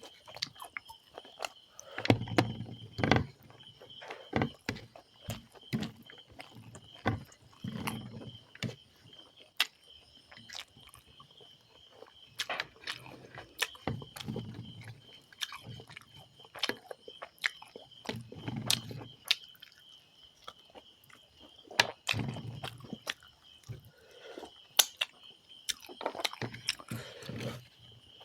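Close-miked eating sounds: a person chewing a mouthful of rice and chicken curry, with irregular wet mouth clicks and smacks and soft low thumps of the jaw every second or two.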